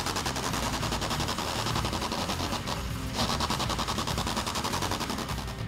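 A 1968 Shelby GT500's V8 engine idling with a fast, even pulse, running to drive the power steering while the front wheels are turned toward lock.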